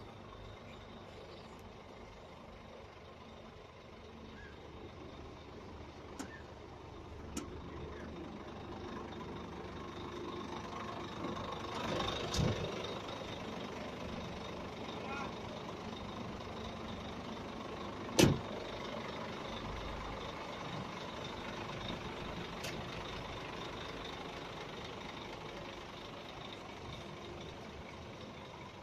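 Scania R 440 truck's diesel engine running steadily, with a few light clicks and one sharp knock.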